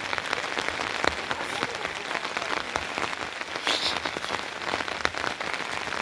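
Steady rain falling, with many separate drops ticking close by. A short high chirp sounds a little under four seconds in.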